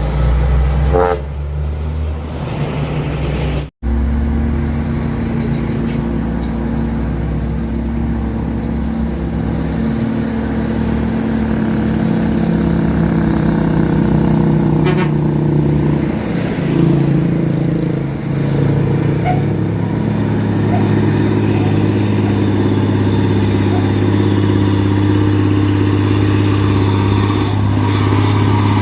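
A heavy truck engine running steadily, its note shifting a few times along the way, with a brief drop-out to silence about four seconds in.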